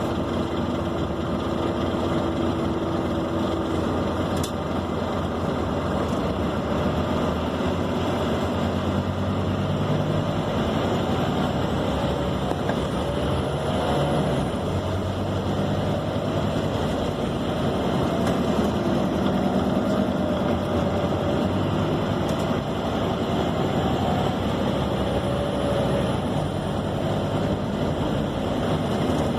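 Scania K270 city bus heard from inside while under way: a steady diesel engine drone with road noise, the engine pitch drifting up and down as the bus changes speed. A faint high whistle rises and falls twice.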